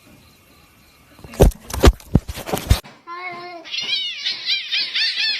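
A few sharp knocks or clicks, then a cat meowing over and over in quick, short calls, each rising and falling in pitch, about four a second.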